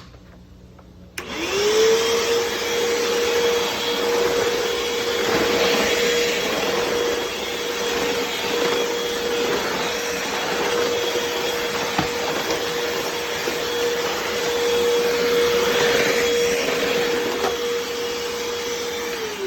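Hoover WindTunnel upright vacuum cleaner switched on about a second in, its motor spinning up to a steady whine over a loud rush of air. The rush swells now and then as it is run over the floor, and the motor starts to wind down at the very end.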